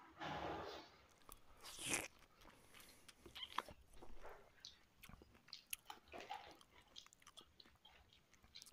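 Close-up eating sounds of a man eating rice by hand: chewing and small mouth clicks. There is a short rustling swell at the start and a sharp click about two seconds in.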